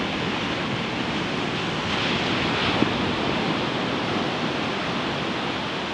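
Ocean surf washing onto a beach, a steady rushing noise that swells a little about two seconds in.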